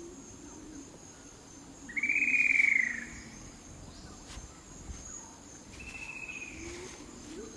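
Two whistled bird calls over a steady high-pitched insect drone: a loud whistle that rises and falls about two seconds in, then a fainter, shorter falling whistle near the six-second mark.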